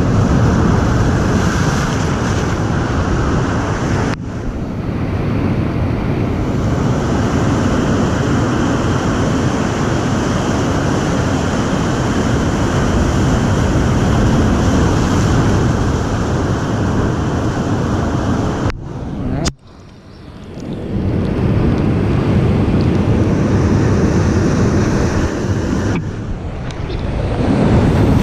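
Ocean waves breaking and washing in, mixed with heavy wind rumbling on the microphone. The noise drops sharply for a moment about two-thirds of the way through, then swells back up.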